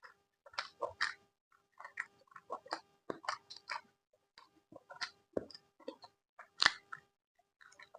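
A person chewing food close to the microphone: wet, clicky mouth and chewing sounds in irregular bursts with short pauses, one louder smack about two-thirds of the way through.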